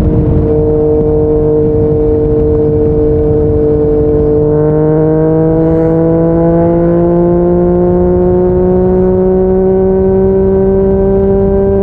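Yamaha MT-09 inline three-cylinder engine through a Yoshimura R55 slip-on exhaust, under way at steady revs. From about four seconds in the engine note climbs slowly and smoothly as the bike gains speed in one gear, with a rush of wind and road noise underneath.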